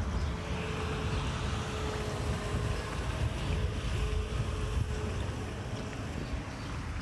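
Wind rumbling on the microphone over the steady hum of a motor.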